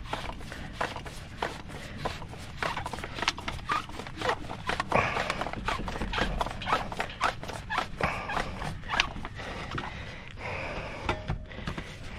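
Rapid, irregular clicks, knocks and scraping as a tight-fitting tankless water heater vent pipe is worked into the hole in the wall.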